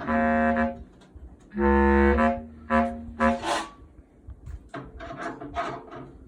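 A musical instrument plays a short phrase of held low notes, the longest about a second in, followed by a few shorter notes. After that come quieter scattered clicks and taps.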